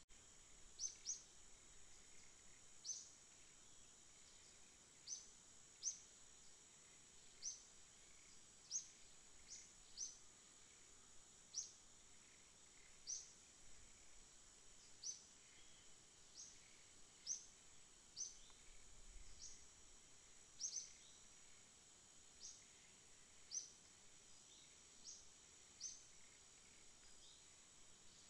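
A small bird giving short, high chirps that slur downward, about one a second, over a faint steady high-pitched hiss.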